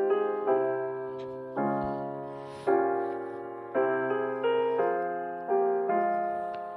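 Slow, gentle piano music: chords struck about once a second, each ringing and fading before the next.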